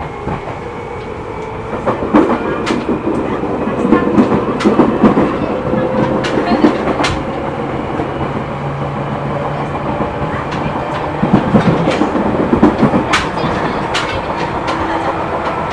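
Seibu New 2000 series electric train running, heard from inside the car: a steady rumble with many sharp clacks and knocks from the wheels on the rail, and humming tones that come and go. The car's wheels have flat spots, which add knocking to the running sound.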